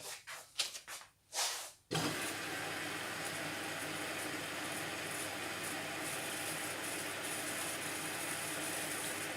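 A few short knocks and handling noises, then about two seconds in a steady rushing hiss starts abruptly: water pouring in through the Indesit washing machine's inlet valve as it fills at the start of a Cottons 45 wash.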